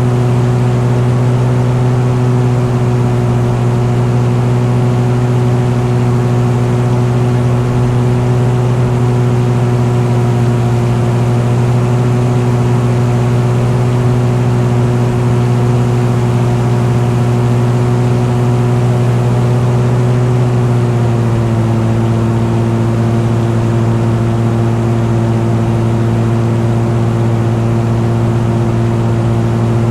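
An engine running at a steady, even speed, with its pitch stepping slightly lower about 21 seconds in.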